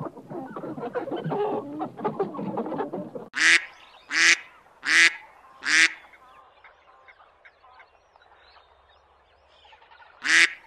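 Farm fowl calling: a busy run of clucking chatter, then four loud, short honks about a second apart, and after a quieter stretch one more honk near the end.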